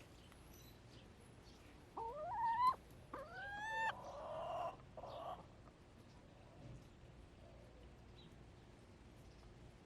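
Backyard hens calling: two drawn-out calls that rise in pitch, about two and three seconds in, then a few seconds of harsher, raspier clucking. After that only faint background ambience.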